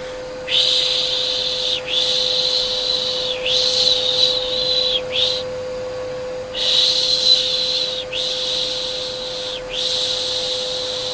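Repeated soft 'shh' shushing to soothe a baby, about seven long shushes with a longer pause near the middle, over the steady hum of a vacuum cleaner motor.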